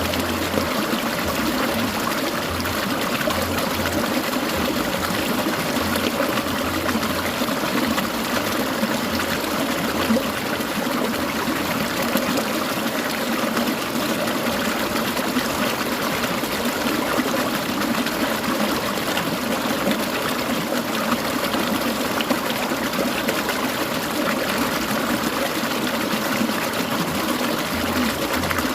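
Clear mountain stream babbling and trickling over stones, steady and unbroken.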